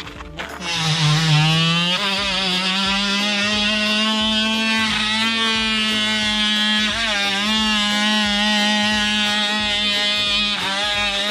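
Worx WX696 electric multi-cutter running and cutting firewood: a steady motor buzz that starts just under a second in and steps up in pitch about two seconds in, with brief dips in pitch as the blade takes load.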